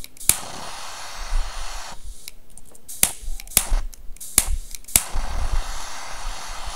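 Torch lighter's igniter clicking sharply several times, with the hiss of its jet flame in stretches between clicks, as the wick is torched to burn residue off.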